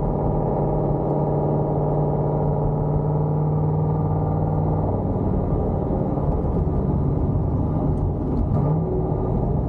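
Cammed C5 Corvette Z06's LS6 V8 running through long-tube headers and Borla ATAK mufflers: a steady, deep exhaust tone that drops to a lower pitch about five seconds in and briefly rises and falls again near the end.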